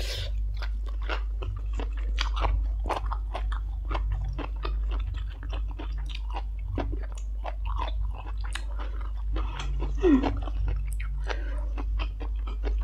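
Close-miked chewing of crunchy blanched Chinese kale and stir-fried instant noodles, a dense run of wet mouth clicks and crunches, with a short rising sound about ten seconds in.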